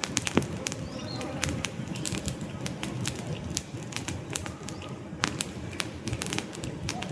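Wood fire crackling in a fireplace: frequent, irregular sharp pops and snaps over a steady low rush of burning logs.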